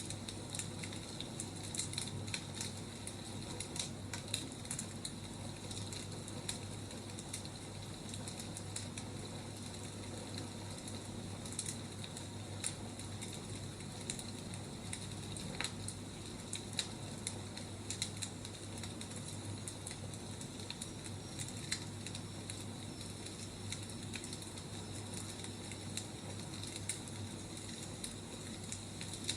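Wood fire crackling: a steady hiss with irregular sharp pops and snaps from the burning logs.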